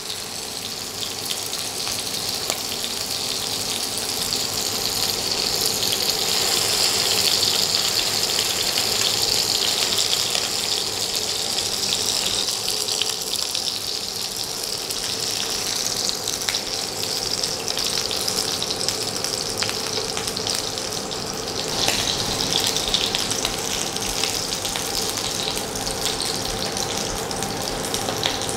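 Beef patties sizzling steadily as they pan-fry in oil that the cook says is too hot, hot enough to scorch them. A few light clicks as a slotted spatula turns them in the pan.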